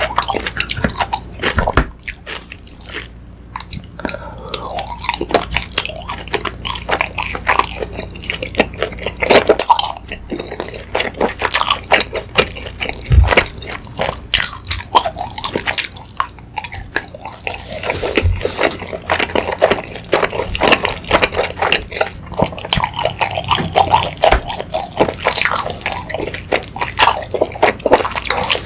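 Close-miked wet chewing and smacking mouth sounds of someone eating sausages and chewy rice cakes in a sticky sweet-spicy sauce, with a few soft knocks.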